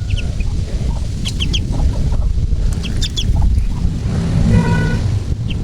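Newly hatched duckling peeping: short high cheeps in clusters of two or three, repeating every second or so. A lower, longer call sounds about four and a half seconds in, over a steady low rumble.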